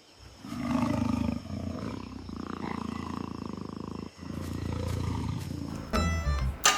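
Tiger growling and roaring: a long, low, rumbling call with a fast pulsing texture, broken briefly about four seconds in. Music starts near the end.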